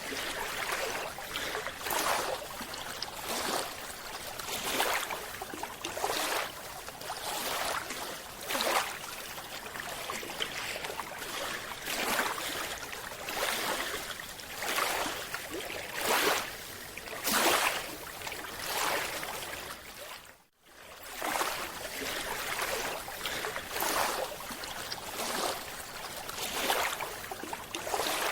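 Underwater recording of a scuba diver's breathing: regulator hiss and rushing exhaled bubbles in repeated surges every second or two. It drops out briefly about twenty seconds in.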